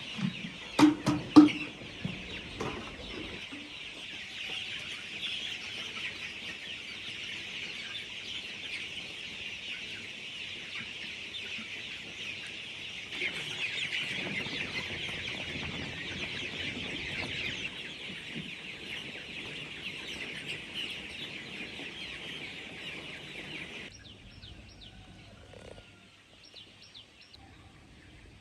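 A flock of chickens clucking and chirping in a steady chatter, with a few loud short calls about a second in. The flock sound cuts off suddenly near the end.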